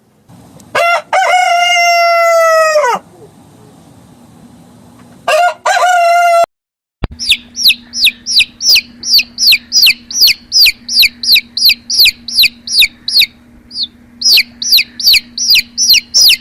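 A rooster crowing, one long crow then a shorter one, followed by a fast run of short high chirps, about three a second, each sweeping downward.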